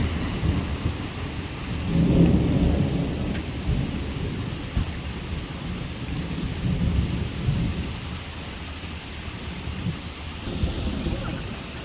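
Thunder rumbling over steady heavy rain, the rumble swelling louder about two seconds in.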